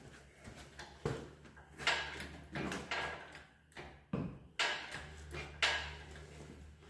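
Irregular knocks and scrapes of metal parts being handled and shifted during engine and transmission installation, with a steady low hum underneath.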